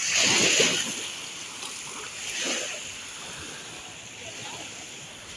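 Small waves washing onto the shore: a surge of hissing water in the first second and a smaller one about two and a half seconds in.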